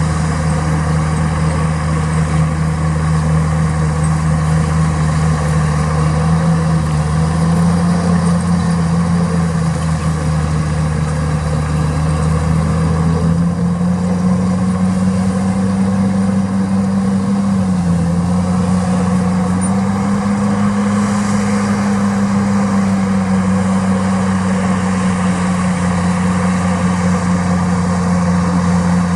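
Heavy construction machine's diesel engine running steadily and loud, its pitch stepping up a little about seven and again about thirteen seconds in, with a brief dip near eighteen seconds.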